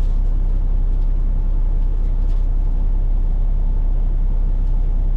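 Steady low rumble of a straight-piped, fully deleted PACCAR MX13 diesel engine running, with no change in pitch or level.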